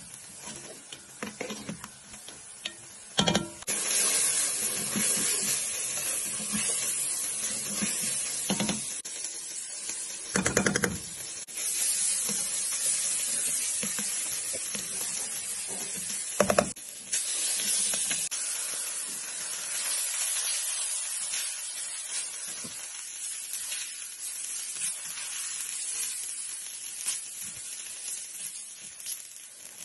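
Food sizzling in hot oil in a wok while a spatula stirs it. The sizzle turns loud about four seconds in, with a few sharp knocks along the way.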